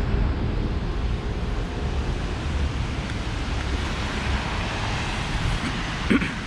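Steady low rumble of city traffic, with wind buffeting the microphone. About six seconds in there is a short sharp knock.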